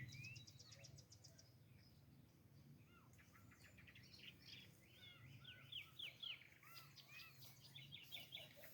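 Faint birdsong: small birds chirping and twittering. There is a quick run of high ticks about half a second in, and a busier stretch of chirps from about five seconds on.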